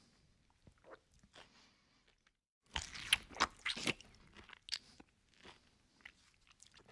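Close-miked chewing of fried food with crisp crunches, scattered at first, then a dense, louder run of crunches from about three to four seconds in.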